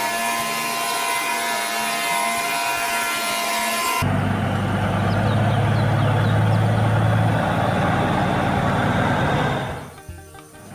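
A rasping, sawing-like mechanical sound effect with a steady whine in it, which cuts abruptly about four seconds in to a steady low truck engine running. The engine drops away briefly near the end.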